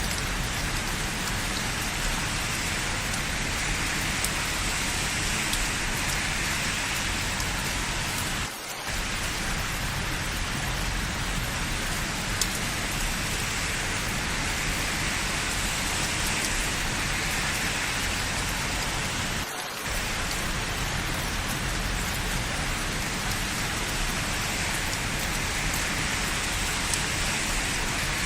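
Steady heavy rain falling, an even hiss, thinning briefly twice, about a third and two-thirds of the way in.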